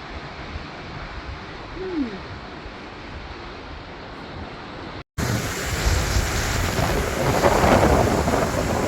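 Quiet outdoor background with a short falling whine about two seconds in, then, after an abrupt cut about five seconds in, louder rushing wind and water noise with wind buffeting the microphone.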